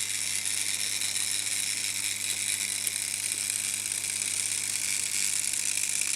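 Märklin H0 model train running on metal M-track: a steady, high-pitched whir and rattle of the motor and wheels on the rails.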